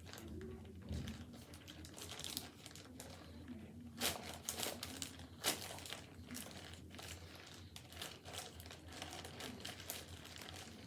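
Plastic bag crinkling and rustling as it is handled, with sharp clicks about four and five and a half seconds in.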